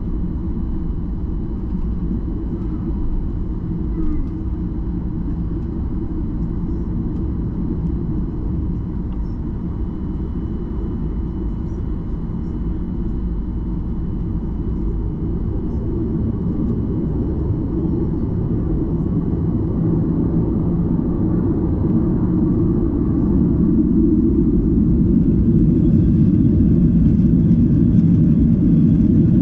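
Boeing 737-800 cabin noise: a steady low rumble of its CFM56-7B engines and airframe heard from inside the cabin, growing gradually louder through the second half.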